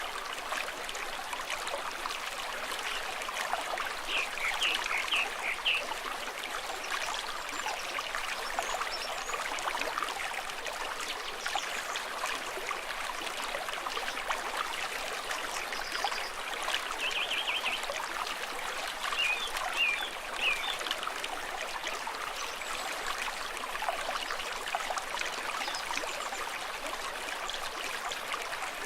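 Stream water flowing and trickling steadily. Three times, short high chirps sound over the flow.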